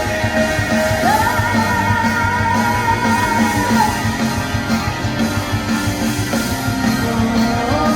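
Live rock band music between sung lines: a long melodic note slides up about a second in and is held for nearly three seconds over guitars, bass and drums.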